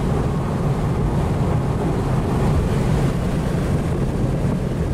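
Steady highway noise of driving among big trucks: a constant rumble of tyres and engines with wind noise.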